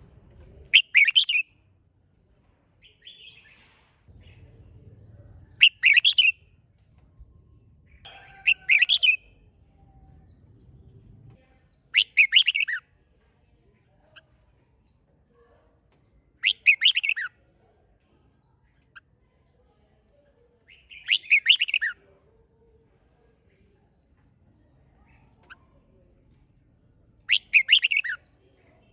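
Red-whiskered bulbul singing short, loud song phrases, seven in all, each under a second and separated by pauses of a few seconds.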